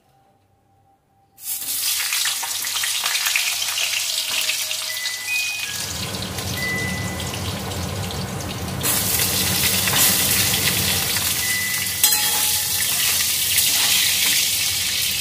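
Potatoes frying in oil in a kadai: a loud, steady sizzle that starts abruptly about a second and a half in. A low hum joins about halfway through.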